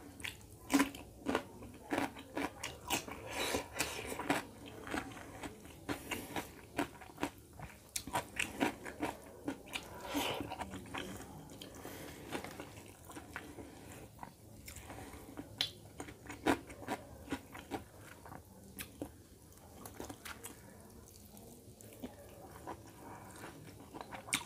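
Close-up mouth sounds of a person eating chicken curry and rice by hand: wet chewing, lip smacks and clicks, with crunchy bites of raw cucumber. The clicks come thick and fast in the first half and thin out later.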